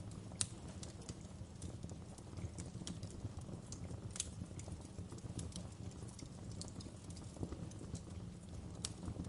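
Wood fire crackling: irregular sharp pops and snaps from the burning logs, a few louder ones standing out, over a low steady rumble.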